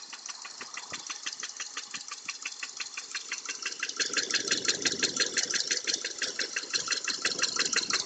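Subaru engine running with a fast, even knock, a steady train of taps that grows louder about four seconds in. The owner says the knock is intermittent.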